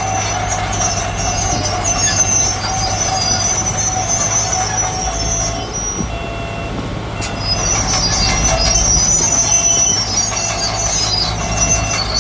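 Heavy earthmoving machine working: a diesel engine runs steadily under high-pitched metallic squealing and scraping that ease briefly about halfway through.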